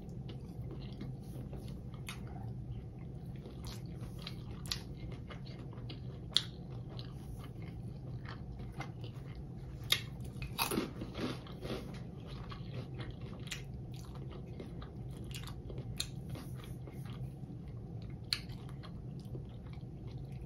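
Close-up chewing of fried hot-Cheetos-crusted king crab, with scattered sharp crunches and wet mouth sounds over a steady low hum. The crunches are loudest and most frequent about ten to twelve seconds in.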